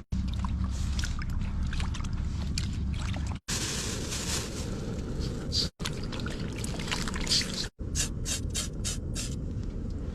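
Wind buffeting the microphone as a steady low rumble, with scattered clicks and clatter over it. The sound breaks off abruptly three times between short clips.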